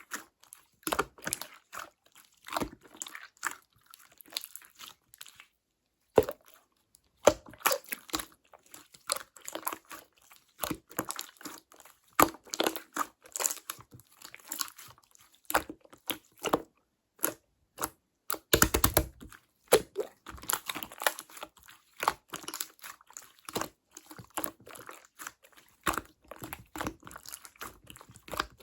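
Hands squishing and stretching clear slime: a run of sticky pops and clicks, with a short pause about five seconds in and a longer, louder squelching burst past the middle.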